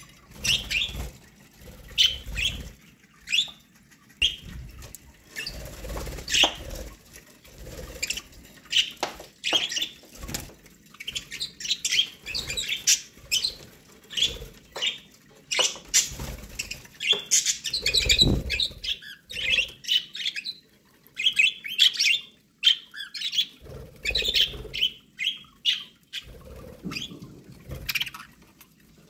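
Budgerigars chirping and chattering continuously in quick short calls, with intermittent low thumps and rustles.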